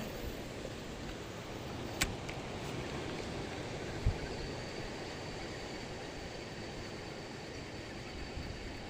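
Steady wind and water noise from a small boat on a lake, with a sharp click about two seconds in and a low thump about two seconds later.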